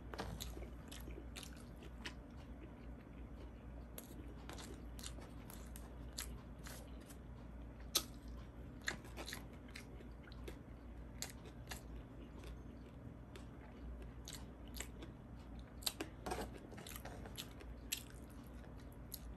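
Close-up mouth sounds of someone chewing and biting food: irregular small clicks and crunches, with a steady low hum underneath.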